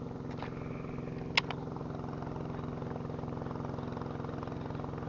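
Small boat engine running steadily at low revs, with one sharp click about a second and a half in.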